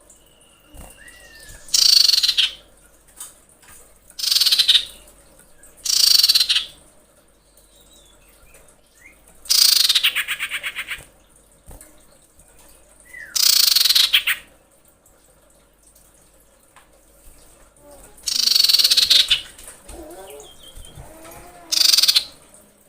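A female common iora (cipoh) gives loud, harsh screeching calls, about seven of them a few seconds apart, one ending in a rapid stutter. These are the calls of a female in breeding condition calling for a male, used as a lure call.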